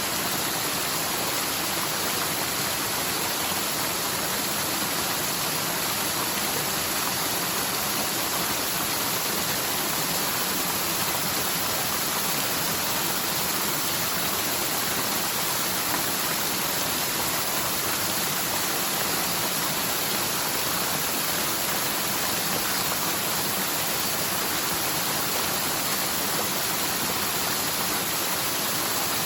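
Rain-swollen mountain stream rushing and splashing down its bed in a steady, even roar; the flow comes from heavy typhoon rain in a channel that is normally almost dry.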